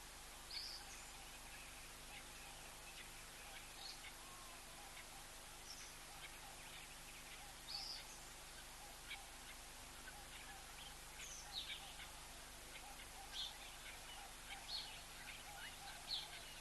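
Small birds calling: short, sharp high chirps every second or two over a steady background hiss.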